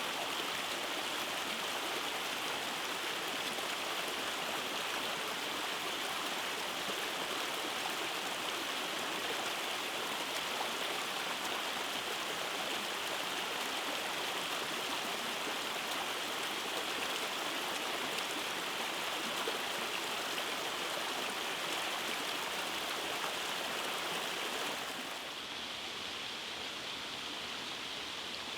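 Rainforest creek rushing over small cascades: a steady, even water noise. About 25 s in it becomes slightly quieter and duller, then carries on steadily.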